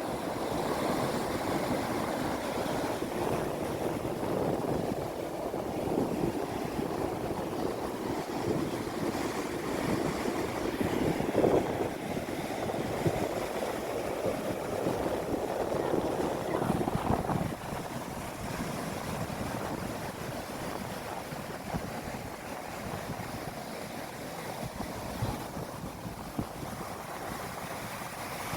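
Sea waves breaking and washing up the shore in a steady rush, a little louder in the first half and easing off slightly after about seventeen seconds.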